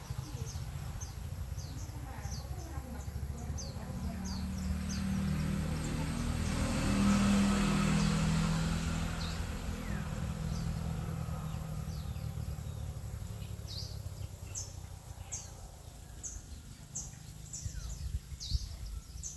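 A motor vehicle passes by, its engine hum swelling to a peak about seven seconds in and then fading away. Birds give repeated short, high, downward-slurred chirps, thickest near the start and in the last few seconds, over a steady low rumble.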